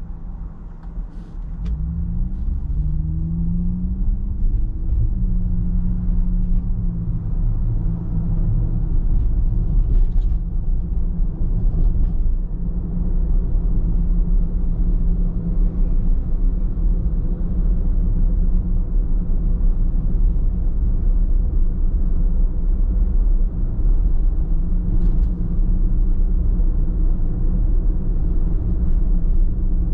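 Car driving with a low engine and road rumble. The engine note rises as the car accelerates about two seconds in, then runs steadily at speed.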